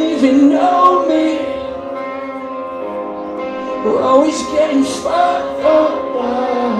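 Live rock band performance with distorted guitars and drums, and a voice singing in short phrases.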